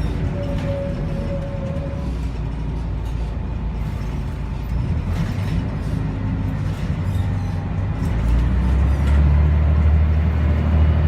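Scania L113CRL city bus's diesel engine running with a steady low rumble. The engine note gets louder and heavier about eight seconds in.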